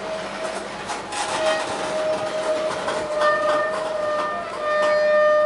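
Freight train of tank cars rolling past close by, with wheels clicking over the rail joints. A steady ringing tone from the train joins about a second in and grows stronger after about three seconds.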